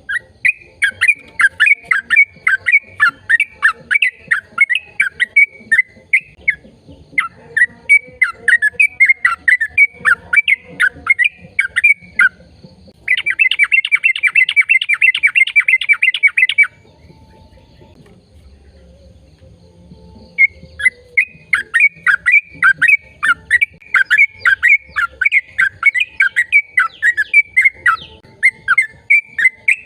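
A bird calling in a rapid series of sharp, downward-sliding chirps, a few each second. Midway it gives a fast, even trill lasting a few seconds, falls silent for about four seconds, then resumes the chirping.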